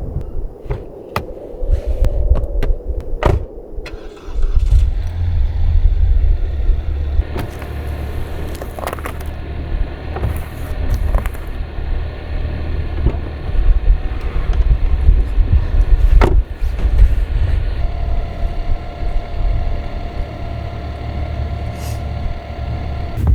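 A few sharp clicks and knocks, then from about four seconds in a car runs with a steady low rumble.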